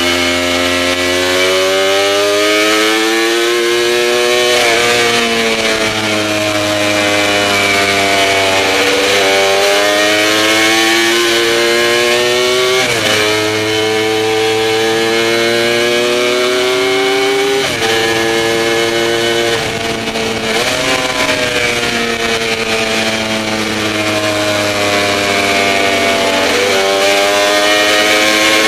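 Works Kawasaki KR750's two-stroke triple racing engine at speed, its pitch climbing under acceleration and dropping back sharply at each upshift, several times over.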